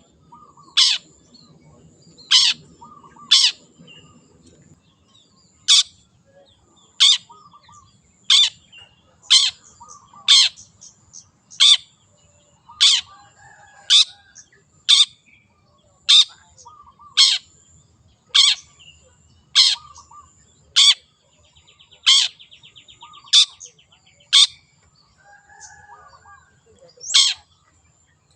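Long-tailed shrike giving short, harsh calls, about one a second, with a brief buzzy trill partway through and a short pause near the end. A faint steady high whine runs underneath.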